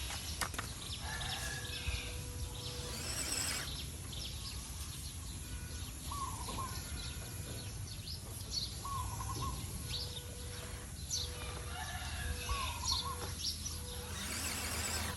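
Birds chirping and calling over a steady low outdoor rumble; one short call repeats every few seconds.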